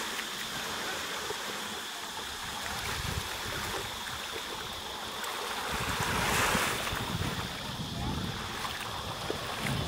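Sea surf washing in steadily, with one wave building and breaking about six seconds in.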